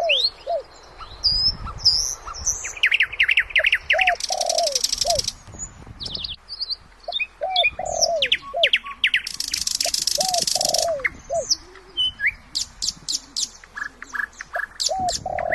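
Several birds singing and calling together: quick high chirps and whistles, a lower call that repeats every few seconds, and two buzzy trills lasting about a second or two each.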